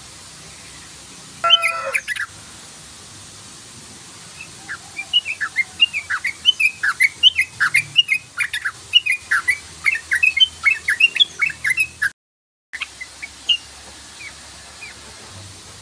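Yellow-vented bulbul chattering: a brief harsher call about a second and a half in, then a long run of short, bubbly notes, several a second, broken by a brief dropout near the end and trailing off into a few scattered notes.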